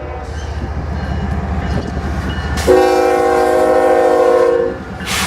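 Union Pacific diesel locomotive 7898 rumbling past at the head of a reefer train, sounding its multi-chime air horn once for about two seconds, starting a little under three seconds in.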